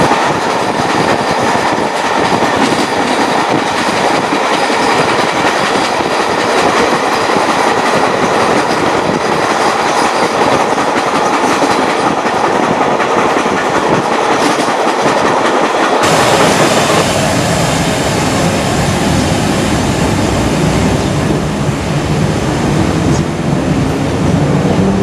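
Train running on the rails, its wheels clacking over the rail joints. About sixteen seconds in the sound changes abruptly, and near the end a rising whine sets in.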